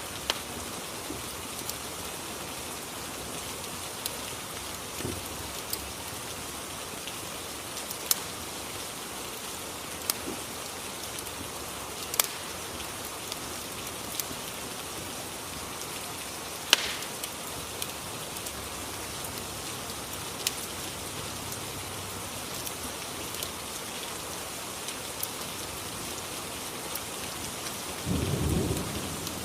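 Ambience track of steady rain falling, with scattered sharp crackles from a fireplace every second or two and a brief low rumble near the end.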